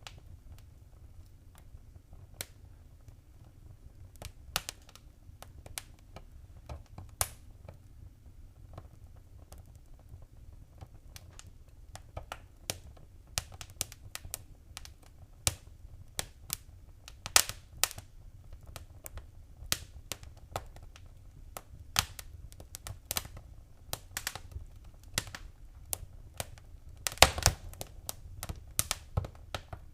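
Wood fire in a fireplace crackling: irregular sharp pops and snaps over a faint low rumble, sparse at first and coming thicker from about a third of the way in, with a cluster of the loudest pops near the end.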